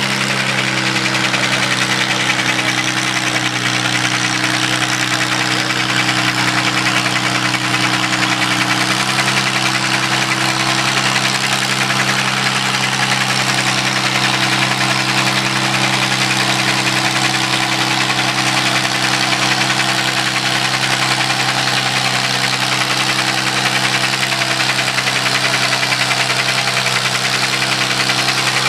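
Antique tractor engine running loud and steady at an unchanging pitch, under load in a tractor pull.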